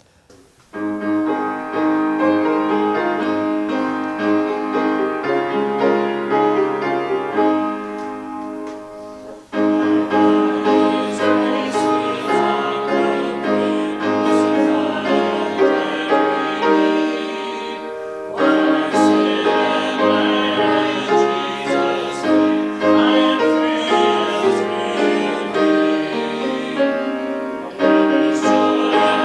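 Keyboard music, piano-like, playing slow sustained chords. It begins about a second in and pauses briefly twice between phrases.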